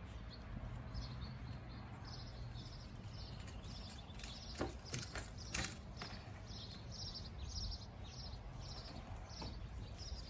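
A bird chirping over and over, about two short high chirps a second, above a steady low rumble. A few sharp knocks come near the middle.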